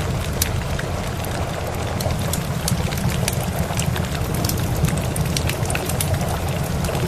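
Steady rain hissing, mixed with a wood fire crackling in sharp, irregular pops, over a continuous low rumble.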